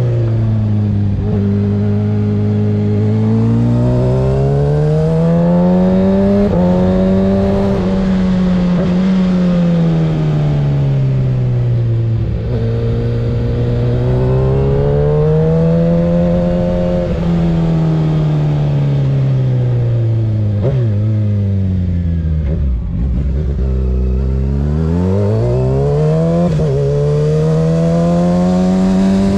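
The inline-four engine of a 2024 Kawasaki ZX-6R 636 through a Graves aftermarket exhaust, revving up and easing off again and again as the bike accelerates and slows. The revs fall to their lowest about three-quarters of the way through, then climb again.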